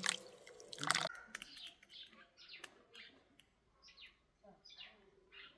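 Running or pouring water that cuts off about a second in, followed by a small bird chirping repeatedly in short, falling chirps.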